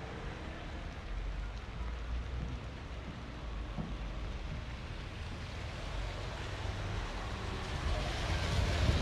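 Steady rain falling on a city street, with a low rumble underneath that grows louder near the end.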